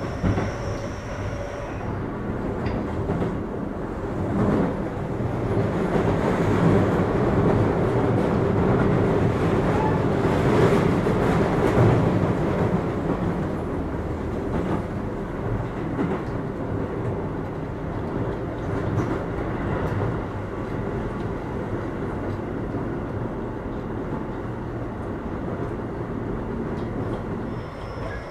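Keio 8000 series electric train (Hitachi SiC inverter car) running along the line, heard from inside the car: a steady rumble of wheels on rails and running gear, louder from about 6 to 12 seconds in.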